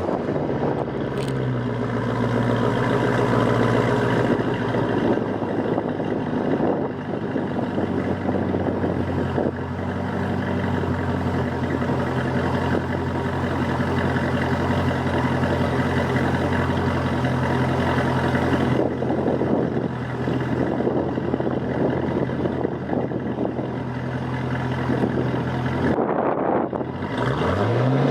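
2012 Cadillac CTS-V's supercharged 6.2-litre V8 idling steadily after a cold start, its note settling slightly lower in the first few seconds. Near the end the engine begins to rev up.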